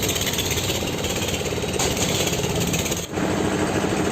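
Diesel tractor engine running steadily with a rapid knocking beat while it drives a fan through a pulley. The sound drops out for a moment about three seconds in.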